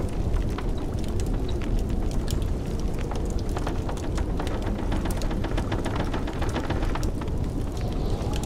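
Wood fire crackling in a fireplace, with many irregular sharp pops and snaps, over the steady low rumble of blizzard wind.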